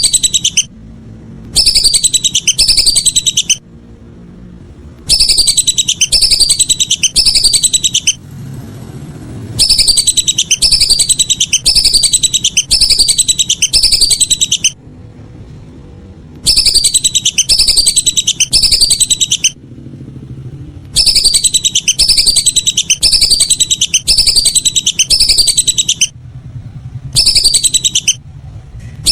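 Whistling ducks (belibis) calling: loud, high whistled notes that fall in pitch, given in quick runs of several, with short pauses between runs, over a steady low hum.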